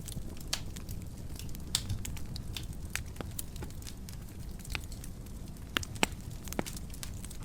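Wood fire in a fireplace burning with a low steady rumble and irregular sharp crackles and pops, a few louder pops near the end.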